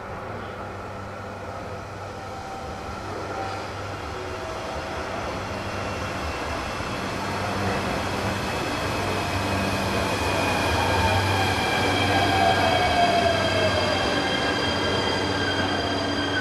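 Electric limited express train pulling in and braking to a stop, growing louder as it nears. A whine falls in pitch as it slows.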